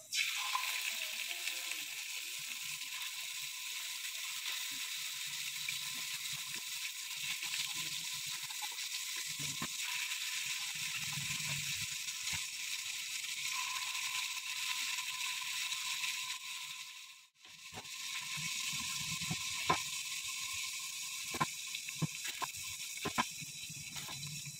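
Marinated chicken pieces sizzling as they fry in oil in a nonstick pan, a steady hiss that breaks off for a moment about two-thirds of the way through. After the break, a fork clicks against the pan several times as the pieces are turned.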